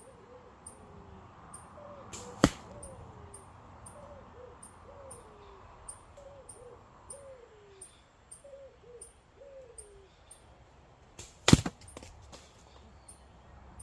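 Two arrows shot from a Seljuk-style traditional bow: a sharp snap of the string on release about two and a half seconds in, and another about eleven and a half seconds in, followed by a few smaller knocks.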